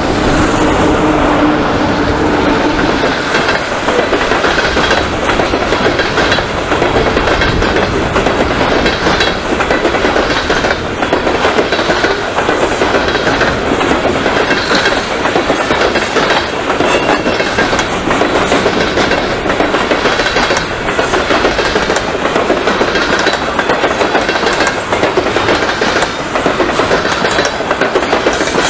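Freight train rolling past close by: steel wheels clicking and rumbling over the rail joints as a long string of covered hopper cars goes by. A tone from the departing locomotives fades out in the first couple of seconds.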